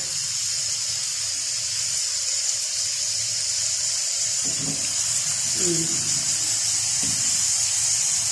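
Sliced onions and green garlic sizzling steadily in ghee in a frying pan as they begin to brown; a steady, even hiss.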